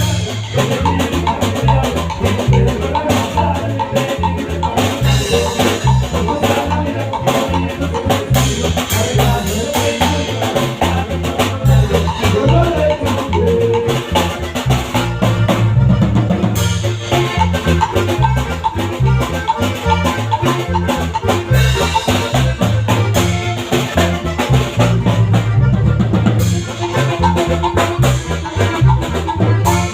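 Norteño band playing an instrumental passage with a steady drum-kit beat.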